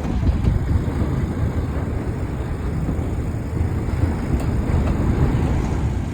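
Steady low engine rumble from a vehicle.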